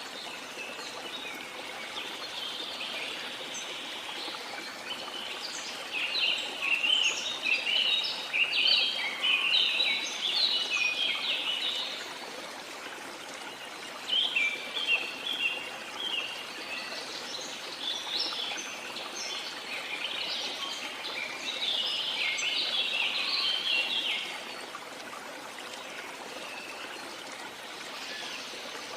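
Steady rush of running water, with birds chirping and singing over it in two long spells, one in the first half and one past the middle.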